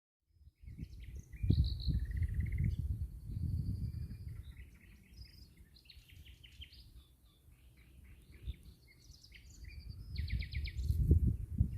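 Several small songbirds chirping and trilling in quick, overlapping phrases. Under them runs a louder low rumbling noise that swells about a second in, fades in the middle and swells again near the end.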